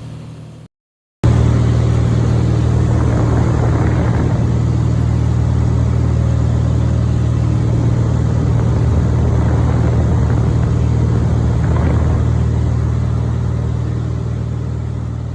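Small airplane's engine and propeller droning steadily in flight. The drone drops out briefly under a second in, comes back loud, and slowly fades near the end.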